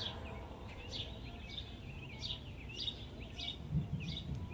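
A songbird chirping, short curved notes about twice a second, over a steady low outdoor rumble. Distant thunder swells low near the end.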